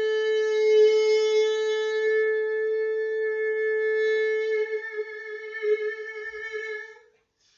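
A man's voice holding one long sung note, steady at first and then wavering as it strains, before breaking off about seven seconds in.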